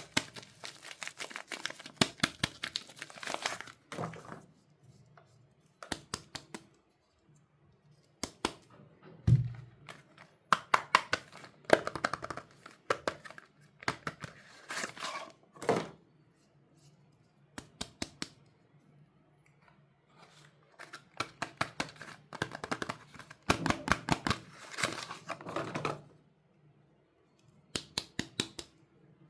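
Soap wrappers being torn open and crinkled by hand: bursts of crackling and tearing with short pauses between, and a soft thump about nine seconds in.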